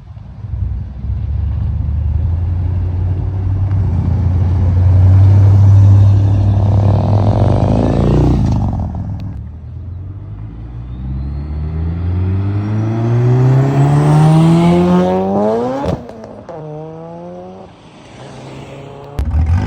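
Car engines accelerating away. One car gets loud and goes past about six to eight seconds in. Then another is revved hard, its engine pitch climbing steadily for several seconds before cutting off abruptly, followed by a short blip of the throttle.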